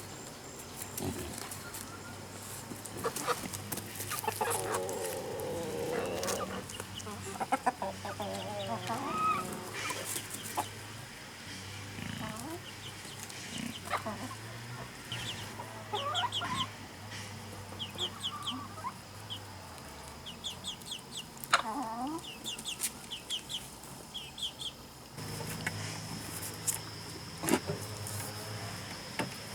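Chickens clucking, with scattered clicks and knocks and runs of quick high chirps.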